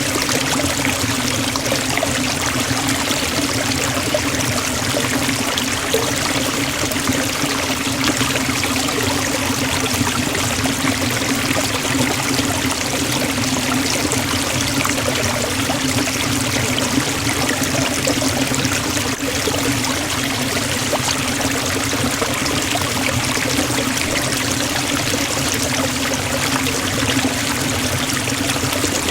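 Forest waterfall: a steady, loud rush of falling water that does not change.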